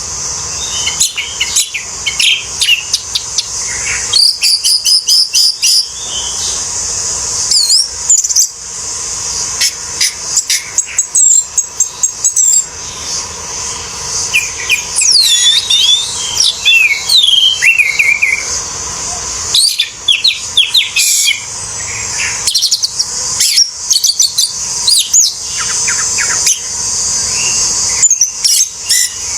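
Orange-headed thrush singing: quick, varied runs of whistles, trills and chattering notes in bouts broken by short pauses, over a steady high-pitched hiss.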